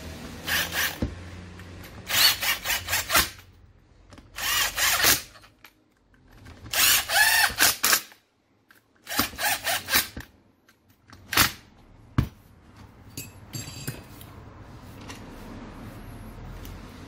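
Power drill-driver running screws in: about six short runs, some triggered in quick stuttering pulses, as the grinder's gear head is screwed onto its housing.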